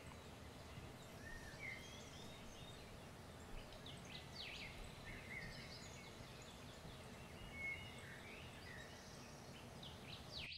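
Birds chirping here and there, short scattered notes over a faint steady background hiss.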